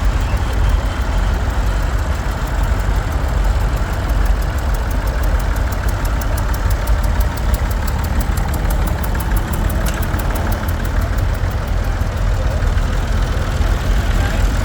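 Vintage tractor engines running steadily with a low, even rumble.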